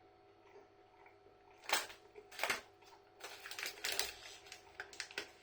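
Close rustling and clicking: two sharp rustles a little under two seconds in, then a run of quicker, smaller clicks and rustles.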